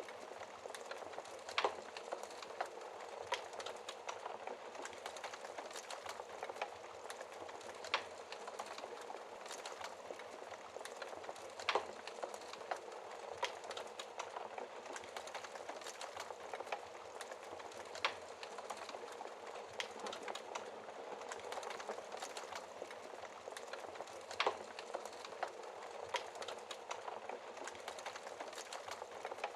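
Fire burning behind a glass shield: a steady hiss of flames with sharp crackles and pops at irregular moments, a few seconds apart.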